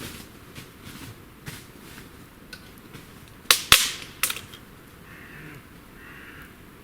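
Three sharp cracks in quick succession halfway through, like dry sticks snapping or wood knocking, then a crow cawing twice, faint and hoarse, near the end.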